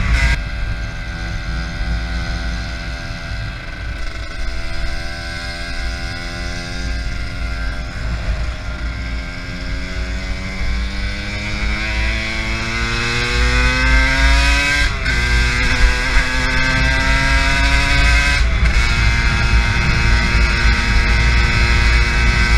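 Aprilia MX 125's single-cylinder two-stroke engine pulling under way. Its pitch climbs slowly for about fifteen seconds, drops suddenly at an upshift, climbs again and drops at a second upshift a few seconds later, then holds steady. A heavy wind rumble on the microphone runs underneath.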